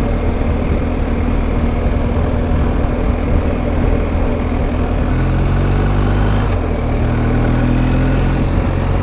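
BMW R1250 GS Adventure's boxer-twin engine running under way, with steady wind and road noise. The engine note changes about five seconds in and again about a second and a half later.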